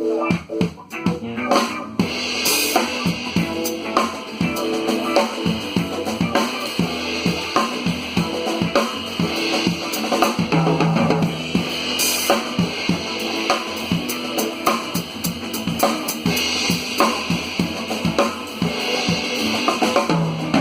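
Instrumental intro of a song played by a band: guitar alone at first, then drum kit and bass come in about two seconds in and carry a steady beat.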